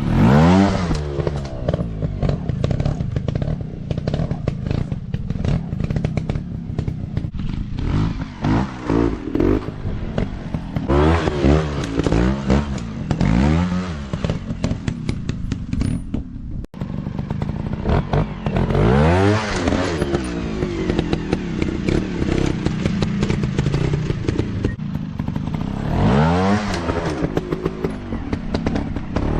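Dirt bike engines revving up and down over and over, rising and falling in pitch, with clattering and knocks over the top. The sound drops out for an instant partway through.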